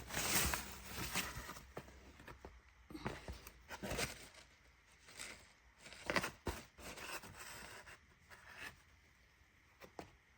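Irregular rustling and scraping handling noises with scattered sharp clicks, busiest in the first second and thinning out towards the end.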